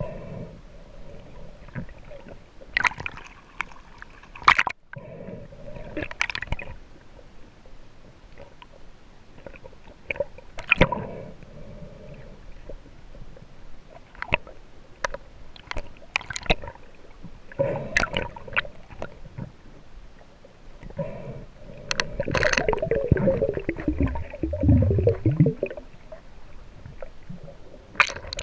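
Water gurgling and sloshing around a freediver's camera, with scattered clicks and splashes and a louder burst of gurgling bubbles for a few seconds near the end.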